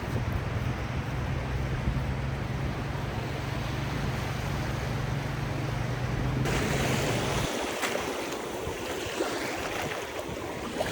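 Ocean surf washing onto the beach, with wind buffeting the microphone. The sound changes abruptly about six and a half seconds in, when a low steady rumble drops away.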